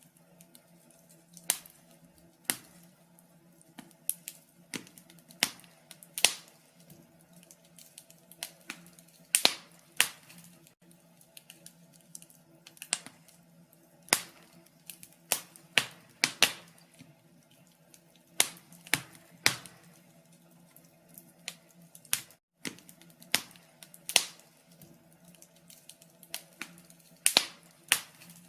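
Wood fire crackling in a fireplace: irregular sharp pops and snaps at uneven spacing, some much louder than others.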